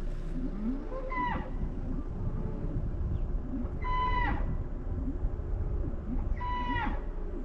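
An animal calling three times, each call a short held, pitched note that drops sharply at its end, over a steady low rumble.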